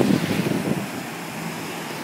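Wind buffeting the microphone over the rush of surf and water, gusting loud for nearly the first second, then easing to a steadier rush.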